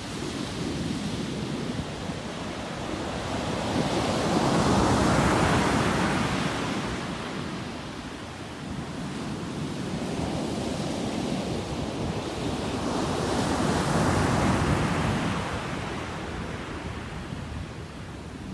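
Sea waves breaking and washing in, a steady surf rush that swells twice, about nine seconds apart, each wave building and then falling away.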